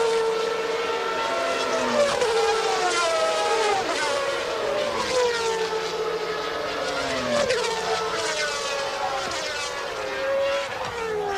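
Formula One race cars' engines at high revs, several at once, their pitch repeatedly rising and then dropping.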